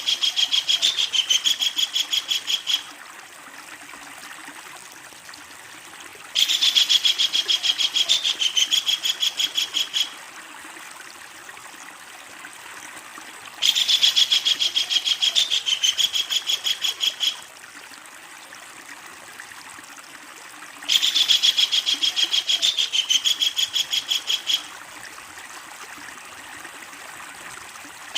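Kingfisher giving its long, loud rattling call: a fast run of sharp repeated notes lasting nearly four seconds, repeated about every seven seconds, four times. A steady sound of flowing stream water runs underneath.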